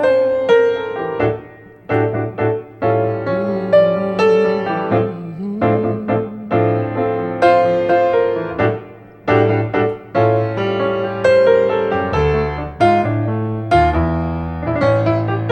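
Grand piano playing an instrumental passage alone, chords and melody notes struck and left to ring over a moving bass line.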